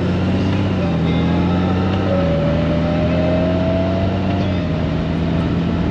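Honda Gold Wing's flat-six engine running at road speed under wind and road noise, its note stepping in pitch a few times.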